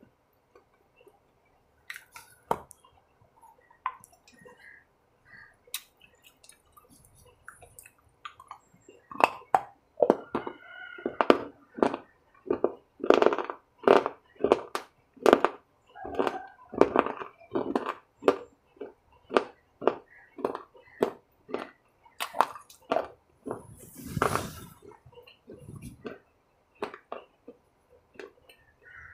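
A person chewing food close to the microphone: a few faint mouth clicks at first, then steady chewing at about two chews a second from about a third of the way in, with one louder, longer noisy sound near the end.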